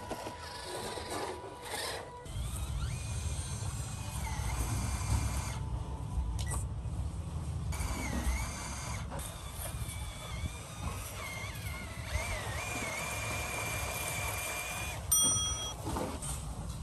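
Small electric RC truck motor whining, its pitch rising and falling with the throttle, over a low rumble of the truck driving over rough ground.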